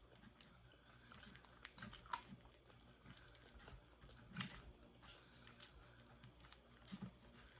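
Faint chewing of crispy fried parrotfish, soft wet mouth sounds with a few louder crunchy clicks, about two, four and a half, and seven seconds in.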